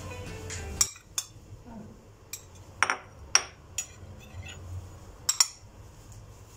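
Music ending about a second in, then a series of light, sharp clinks and knocks, as of small hard objects being handled, some ringing briefly.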